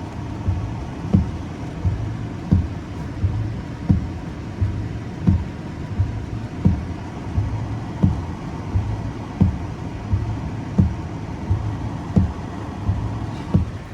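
Car windshield wipers sweeping, a low thump about every second and a half with a softer one between, over a steady low hum inside the car's cabin.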